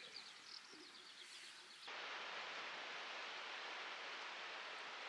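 A few birds chirping faintly over quiet outdoor background, then about two seconds in the sound cuts abruptly to a louder, steady rushing noise with no distinct events.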